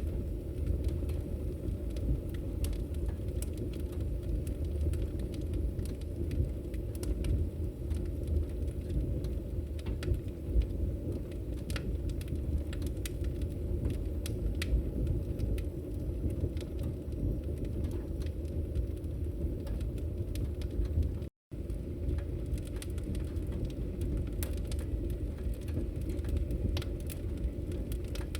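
Wood fire crackling in a fireplace: a steady low rumble of flame with frequent sharp crackles and pops. The sound cuts out for a split second about three-quarters of the way through.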